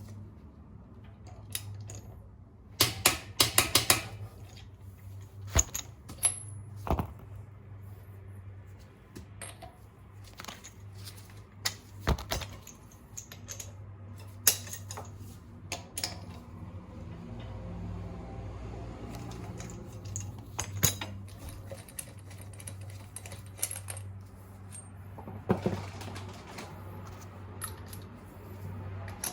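Metal lug nuts and hand tools clinking and clicking while the lug nuts on a wheel are being swapped, with a quick run of clicks about three seconds in. A steady low hum runs underneath.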